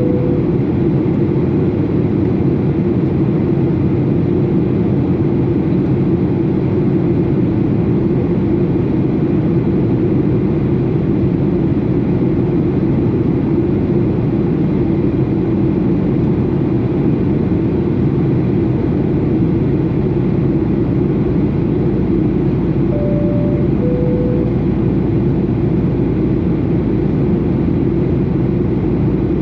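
Steady cabin noise inside a Boeing 737 airliner: engine and airflow rumble at an even level. About 23 seconds in comes a two-note cabin chime, high then low.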